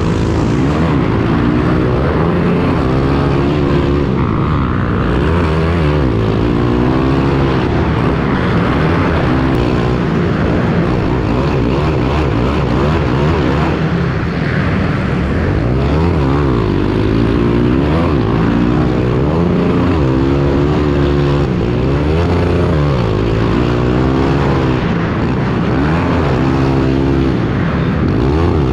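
Several pit bike engines revving as the bikes race around a dirt track, their pitch repeatedly climbing and dropping as riders accelerate and shut off, several overlapping at once.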